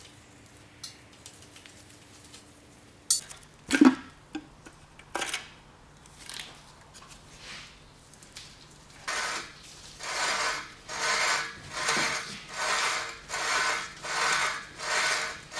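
Hand-tool work on a rear axle's differential housing: a few sharp metal clinks and knocks, then a steady run of rasping scraping strokes, a little more than one a second.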